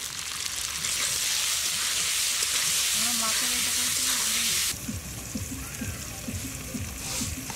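Green tomato pieces sizzling in hot mustard oil in an aluminium kadai as they are stirred with a metal ladle. The sizzle cuts off suddenly about four and a half seconds in. After that comes a light patter of mustard seeds poured onto a stone grinding slab.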